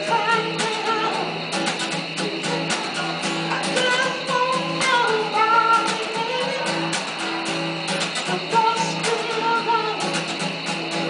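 A subway busker singing a song to guitar accompaniment, with regular strummed chords under the melody.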